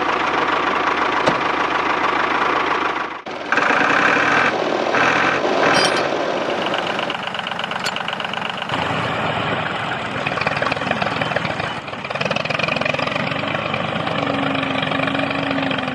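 Mini tractor's small engine running steadily. The sound drops out and restarts abruptly about three seconds in, and changes character twice more later on.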